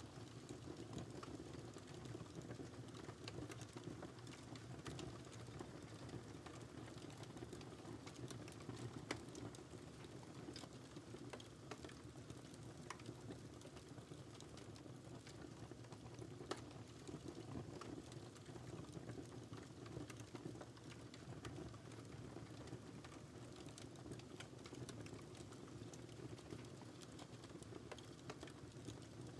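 Wood fire burning in a fireplace: a soft steady rush of flame with frequent irregular crackles and a few sharper pops.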